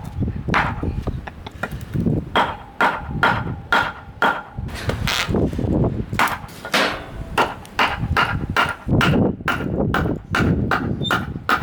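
A run of irregular knocks and clunks, like objects being handled and set down, over a steady low rumble.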